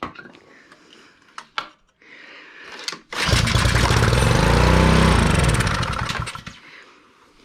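Ryobi pressure washer's small gas engine pull-started: it fires and runs for about three seconds, its speed rising and then sagging until it dies out. This is typical of fuel starvation, a carburetor that is not drawing fuel up the emulsion tube.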